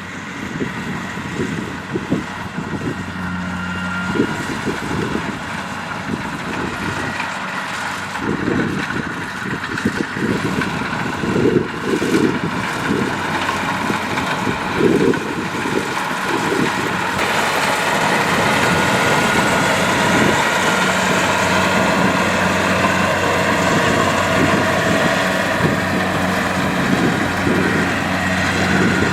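Kubota DC-70 Plus combine harvester's diesel engine running steadily, with irregular knocking and rattling over it. About halfway through the sound gets a little louder and more even.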